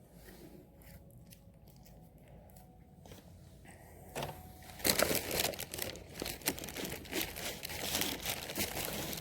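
Taco Bell food packaging being crinkled and torn open, in a busy run of rustles and tears that starts about four seconds in.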